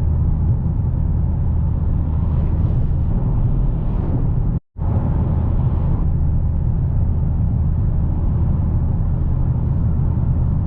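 Steady in-cabin drone of a 2022 Dodge Challenger Hellcat cruising at an even speed: the low hum of its 6.2-litre supercharged V8 under light load, mixed with road and tyre noise. The sound cuts out completely for a split second about four and a half seconds in.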